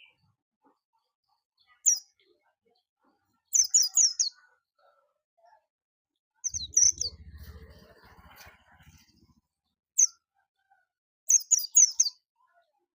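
White-eye (pleci) chirping in short, very high bursts: five bursts spread a couple of seconds apart, some a single note and some a quick run of three or four notes. A faint low rumble runs under the third burst for about three seconds.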